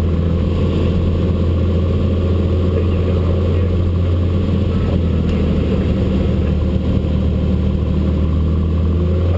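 Cessna 182's piston engine and propeller droning steadily at an even level.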